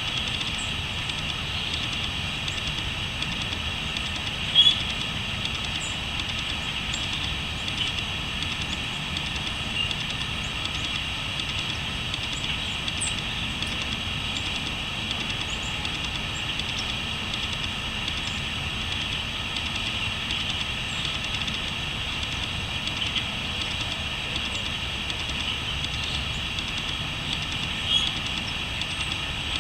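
Crickets trilling in a steady, continuous chorus, with a few short bird calls and a low rumble underneath.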